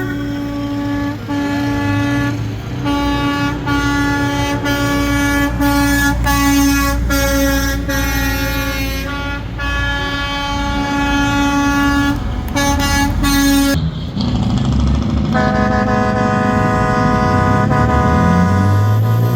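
Semi-truck air horns honking in a string of short and long blasts over idling diesel engines, then a different-pitched horn held for about four seconds near the end.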